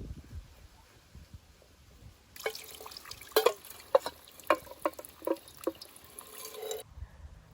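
Water dripping and splashing in irregular drops, some loud and ringing, in a clip of about four seconds that starts and cuts off abruptly.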